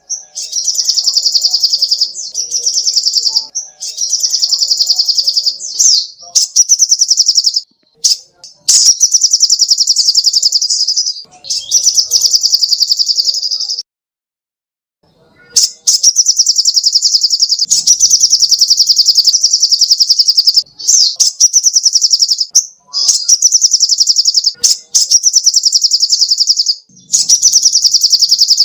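A sogoh ontong songbird singing loud, very rapid high-pitched trills in repeated bursts of one to two seconds, with short breaks between them and a longer pause of about a second and a half partway through.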